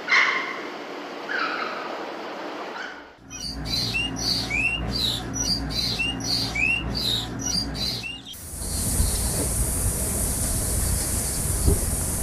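Bird chirping: a run of short rising chirps, about two a second, over a low hum. Before it come a few pitched animal calls, and after an abrupt change a steady hiss takes over.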